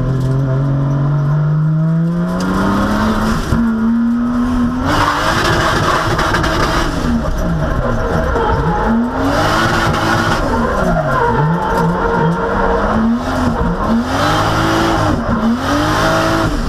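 Drift car engine under load: its pitch climbs steadily for the first few seconds, then swings up and down again and again as the throttle is worked through a drift, with tyres squealing.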